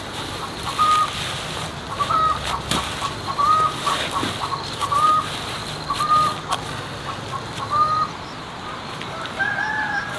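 A bird calling over and over: short, even calls about every second and a half, then a longer, higher drawn-out call near the end.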